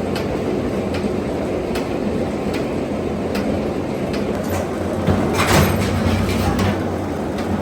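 Metalworking shop machinery running with a steady hum, sharp metallic clicks a little under once a second, and a louder clatter of sheet metal about five seconds in.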